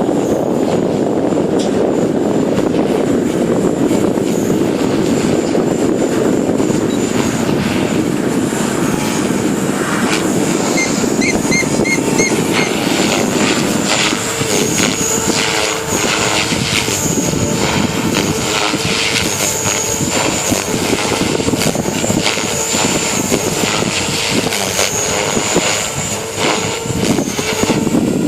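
JR Propo Forza 450 radio-controlled helicopter flying, its rotor and electric motor giving a steady whine that rises and falls in pitch with throttle. Heavy wind buffets the microphone, strongest through the first half.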